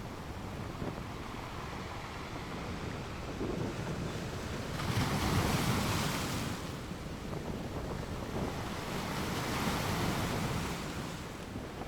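Stormy sea surf with waves breaking on rocks: a steady rush of water swells into a large crash about five seconds in and again near ten seconds. Wind is buffeting the microphone.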